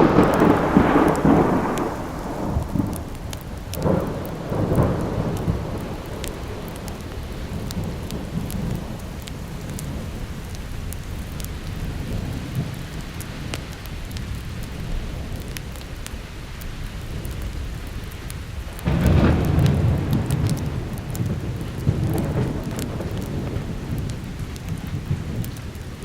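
Thunder rumbling over steady rain: a loud roll right at the start, shorter ones about four seconds in, and another loud roll about nineteen seconds in followed by a weaker one. Small sharp ticks run through the steady hiss of the rain.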